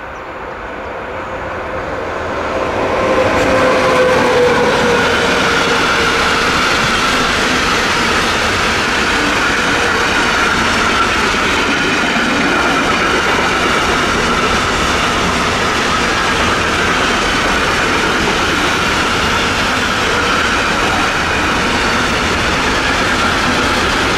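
Electric locomotive hauling a container freight train draws near and passes close by, getting louder over the first few seconds. A tone dips slightly in pitch about three seconds in, then the container wagons roll past on the rails in a steady, loud rumble.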